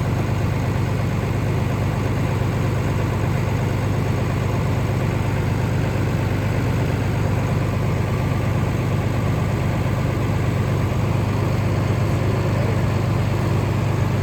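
Tractor engine idling steadily, an even low hum that does not change.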